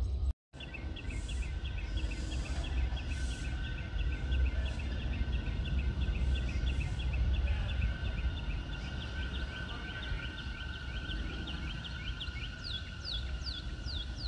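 A bird chirping in a quick, even series over a steady high hum and a low rumble, with falling whistled calls about two a second near the end. The sound cuts out briefly just after the start.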